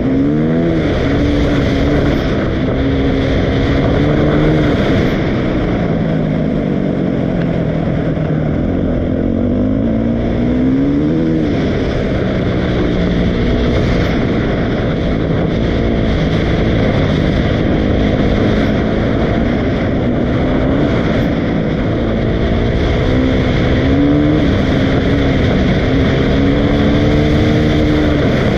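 Dirt bike engine running under riding throttle, its pitch climbing and dropping again and again as the throttle is opened and closed.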